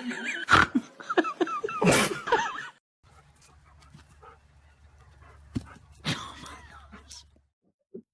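A dog whining and whimpering in high, wavering cries, with two sharp knocks in the first couple of seconds. It then falls quiet to a faint low hum, broken by a short louder burst about six seconds in.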